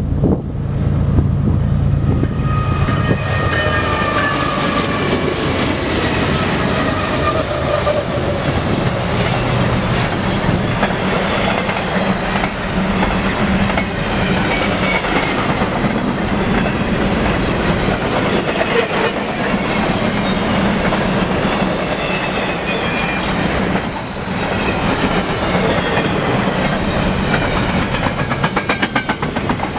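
BNSF diesel freight locomotives passing close by with a low engine rumble, then a long train of double-stack container cars rolling past with steady wheel noise. The wheels click on the rails and squeal high-pitched on the curve, the squeal sliding in pitch and strongest a little over twenty seconds in.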